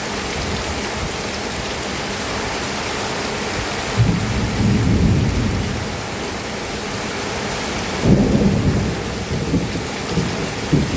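Steady heavy rain, with two low rumbles of thunder, one about four seconds in and another about eight seconds in.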